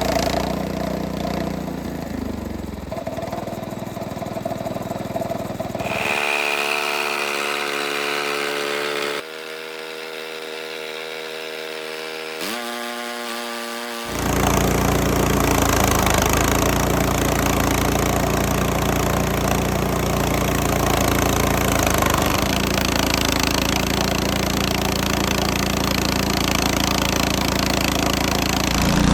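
Frontier OS18 bandsaw mill's small gasoline engine running while the blade cuts a black walnut log. Through the middle the sound thins to an even-pitched engine hum that rises about 12 seconds in. From about 14 seconds it turns into a loud, steady mix of engine and saw noise.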